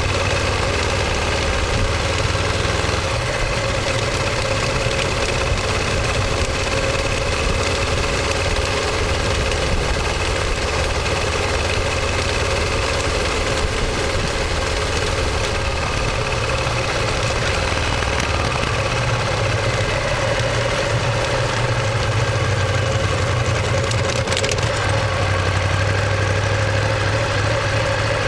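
Ducati Monster 1200S L-twin engine and exhaust running steadily at an even engine speed, with no revving up or down.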